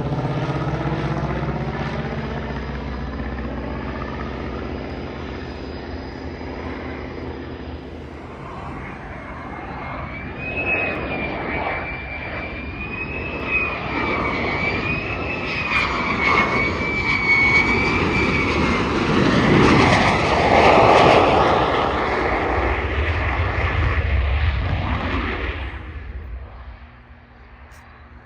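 Aircraft engines flying past, their pitch sliding down as the first one moves away. Then a louder pass builds, with a wavering high whine over it, peaks about twenty seconds in and fades out quickly near the end.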